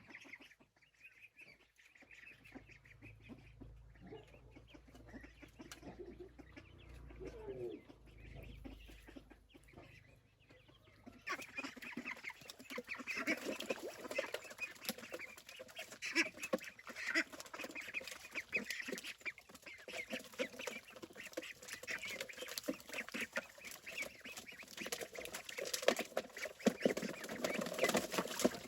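Chickens clucking, quiet at first, then much louder and busier from about a third of the way in.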